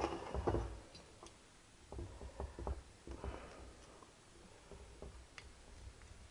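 Scattered light clicks and knocks of metal tools and parts being handled on a motorcycle cylinder head, with a brief scrape about three seconds in, as work begins on taking the valves out.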